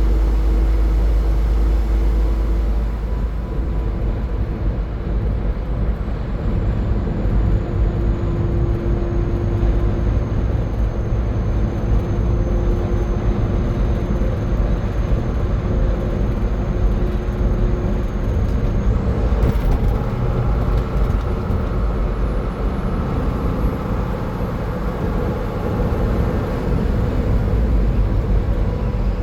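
Steady road and engine noise of a car driving at highway speed, a constant low rumble of tyres and drivetrain with a faint high whine that drifts in pitch. A brief knock comes about twenty seconds in.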